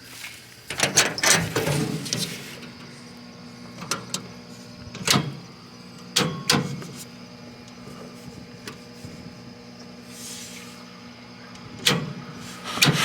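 An engine idling with a steady low hum, under several sharp clunks and clicks of metal parts being handled, a few seconds apart.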